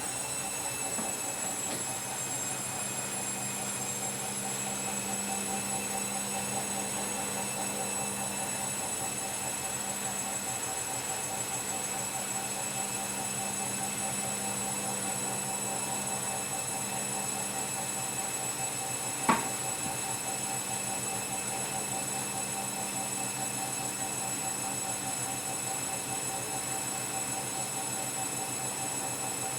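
Washing machine running steadily, its motor giving a constant high whine over a low hum. A single sharp click sounds about 19 seconds in.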